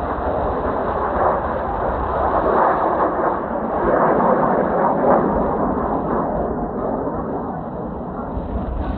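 Kawasaki T-4 jet trainer noise passing overhead: a broad jet roar that builds to its loudest around the middle and then eases. Wind buffets the microphone.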